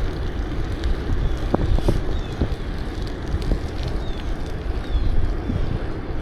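Wind buffeting the microphone of a camera on a moving bicycle, over a steady low rumble from the ride, with a few faint short high chirps.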